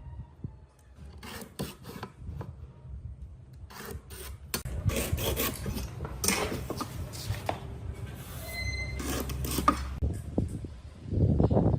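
Hand work on wood: irregular rubbing and scraping strokes, with the loudest stroke near the end.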